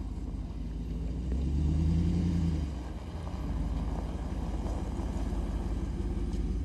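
A motor vehicle's engine running with a low rumble. It swells louder for a second or so shortly after the start, then holds steady.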